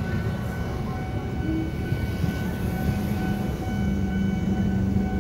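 JR 205 series electric commuter train running through a level crossing: a steady low rumble of wheels and motors, with a low hum that grows stronger about halfway through and steady high tones above it.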